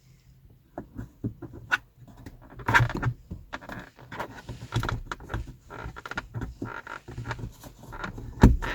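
Plastic mirror-cover trim being handled and pressed into place: irregular rattling and rubbing with scattered sharp clicks, and a louder snap near the end as a retaining tab locks in.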